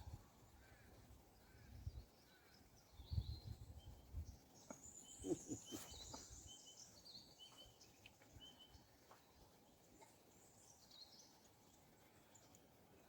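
Quiet outdoor ambience with faint, scattered bird chirps and short whistled calls, busiest in the middle, with a couple of brief low rumbles early on.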